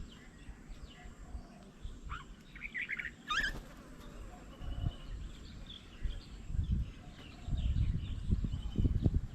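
Birds chirping and calling, with a cluster of short high calls about two to three seconds in. Low rumbling swells up near the end and is the loudest sound.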